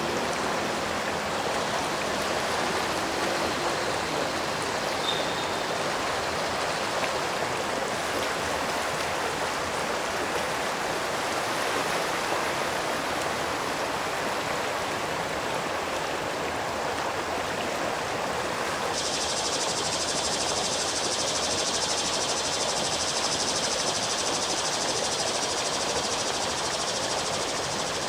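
Steady rush of running stream water. About two-thirds of the way through, a higher, finer hiss joins suddenly and keeps on.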